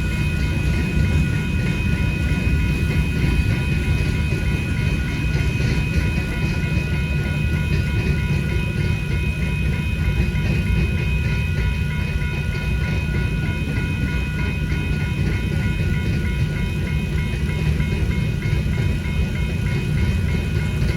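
Freight train cars rolling through a grade crossing with a steady low rumble, while the crossing signal's bell rings on in an even, repeating rhythm.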